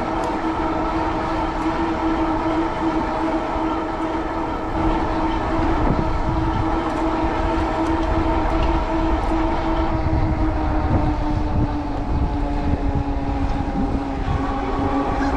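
Cyrusher Kommoda 20-inch fat-tire e-bike riding at speed, a steady pitched hum from its tyres and Bafang rear hub motor that drops slightly in pitch near the end as it slows, with strong wind rumbling on the microphone.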